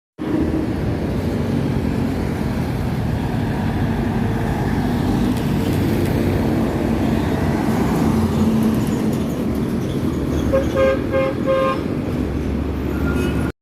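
Road traffic with heavy vehicle engines running steadily. A vehicle horn gives a few quick toots about three-quarters of the way through.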